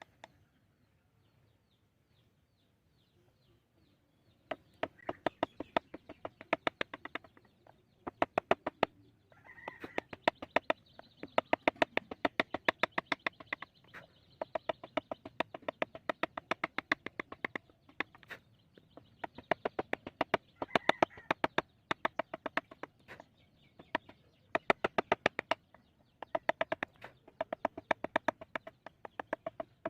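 Mallet striking a carving chisel into wood in quick runs of sharp taps, about five a second, with short pauses between runs; the tapping starts about four seconds in.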